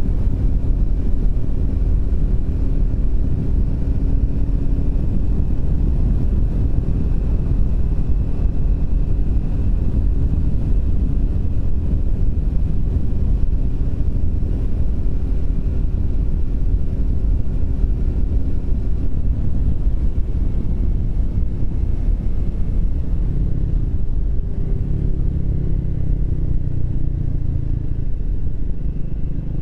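Triumph Speed 400's single-cylinder engine running at a steady cruise under heavy low wind rumble; about 24 seconds in the engine note falls as the bike slows.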